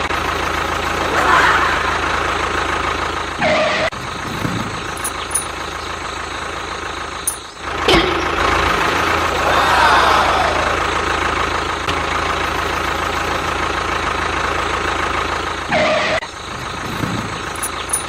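Tractor engine running steadily, with a couple of brief swells in pitch and abrupt breaks every few seconds where the sound is cut.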